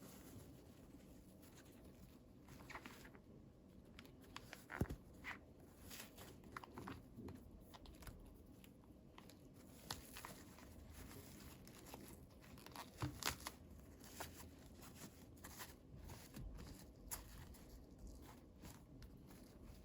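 Faint handling noises: scattered small clicks and rustles of plastic toy packaging and pieces being opened, with a few sharper clicks.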